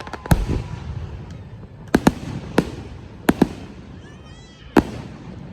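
Fireworks going off: about seven sharp bangs spread over the few seconds, some in quick pairs, over a steady low rumble of other bursts.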